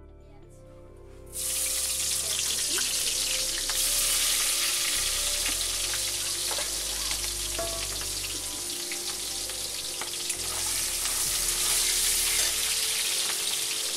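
Sliced onions hitting hot oil in a steel wok, starting to sizzle suddenly about a second in and frying steadily after that, with small scrapes of a spatula as they are stirred.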